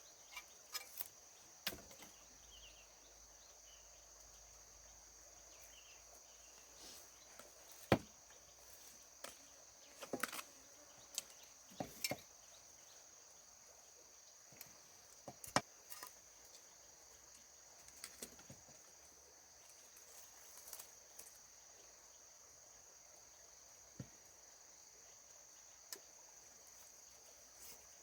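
Insects chirping in a steady high-pitched drone, with irregular sharp snaps and knocks over it, the loudest about eight seconds in.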